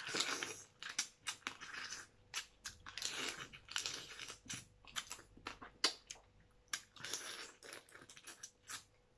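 A person biting and chewing cooked crab held at the mouth, with irregular crunches and cracks of shell and wet chewing.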